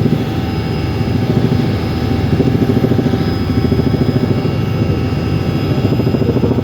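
Helicopter in flight: a steady rapid rotor beat with thin steady high-pitched tones above it.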